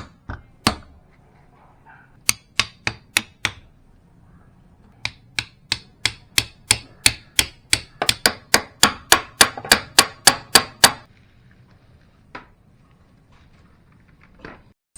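A run of sharp knocks or taps: a few scattered at first, then a regular series of about three a second that quickens slightly and stops suddenly about eleven seconds in.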